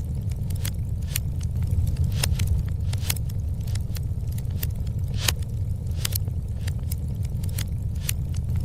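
Wood fire burning in a fireplace: a steady low roar of the flames with frequent irregular crackles and sharp pops of the burning wood.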